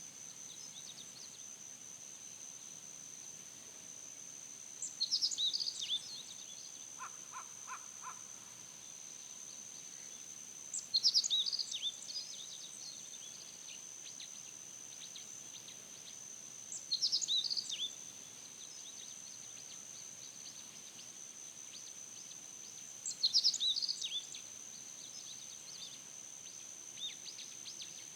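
A songbird repeating a short, chattering song phrase about every six seconds over a steady, high-pitched insect drone. A few faint crow caws come once, about a quarter of the way in.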